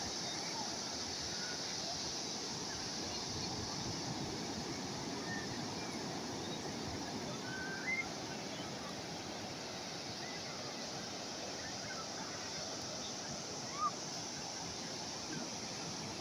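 Steady wash of calm sea waves breaking on the shore, an even rushing sound with no clear rhythm. Two brief, slightly louder short sounds stand out, about halfway through and again near the end.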